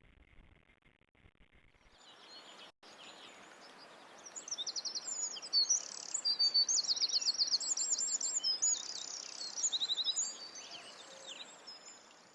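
Small birds singing in quick, high trills and chirps over a steady outdoor hiss. The sound comes in about two seconds in, and the song is loudest through the middle.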